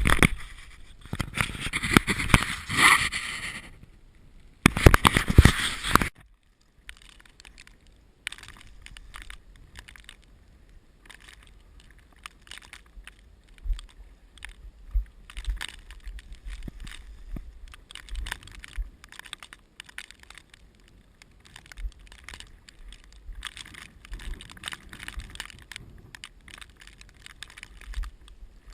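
Strong wind gusts blasting the microphone twice in the first six seconds, then quieter, irregular crackling and scraping.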